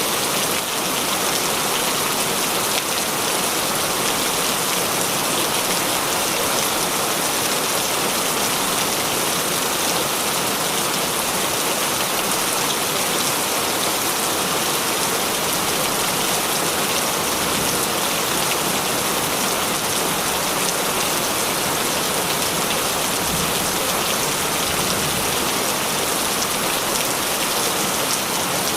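Heavy rain falling steadily, a dense even hiss of raindrops.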